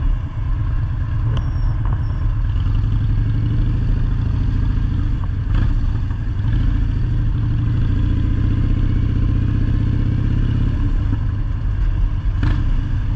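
Motorcycle engine running steadily, with a low, even rumble throughout and a couple of short knocks near the end.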